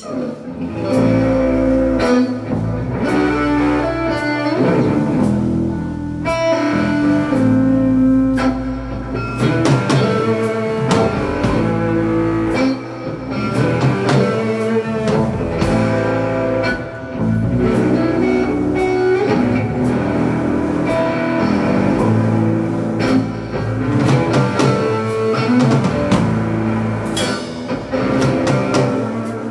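Live rock band playing a song's instrumental opening: electric guitar, bass and drum kit, with a steady beat of drum hits.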